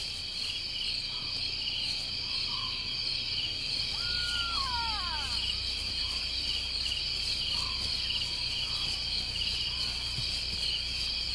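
Night chorus of crickets trilling steadily at a high pitch. About four seconds in there is one falling whistled call, and a few faint short chirps sound lower down.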